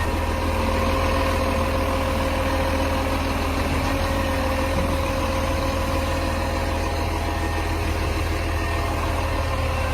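Garbage truck engine idling steadily.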